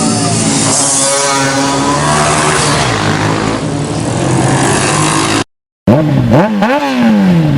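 Motorcycle engine running steadily under way, with wind hiss over it. After a brief cut, a motorcycle engine is revved sharply up and down several times, the last rev falling away slowly.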